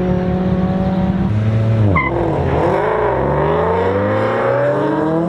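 Performance car engine held at steady revs, then dipping and climbing in pitch as the car launches and accelerates hard, with a short tyre chirp about two seconds in.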